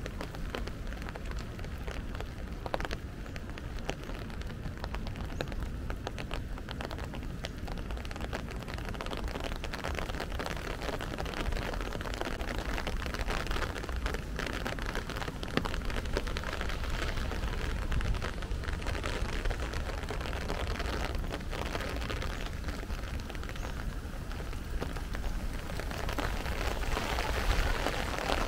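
Steady rain falling, with many small drop hits close by over an even hiss, growing a little louder near the end.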